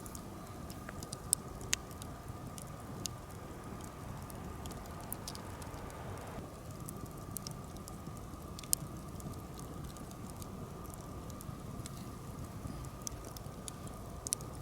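Birch-wood campfire burning with soft crackling, broken by scattered sharp pops, a few of them louder than the rest.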